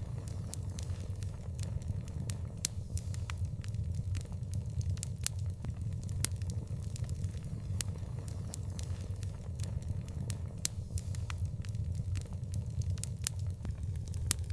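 Open fire crackling: frequent sharp, irregular pops and snaps over a steady low rumble.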